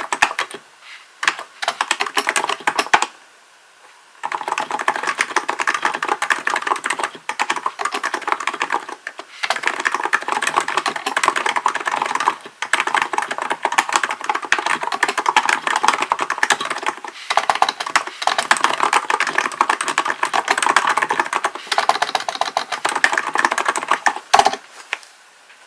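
Fast typing on a Hansung GK898B electrostatic capacitive (non-contact) keyboard, keys clacking in long quick runs broken by short pauses. There is a longer pause about three seconds in, and the typing stops near the end.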